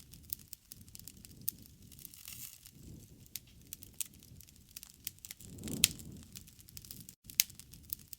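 Wood campfire crackling: irregular sharp pops and snaps over a low rumble of flames, with a louder swell and pop about six seconds in.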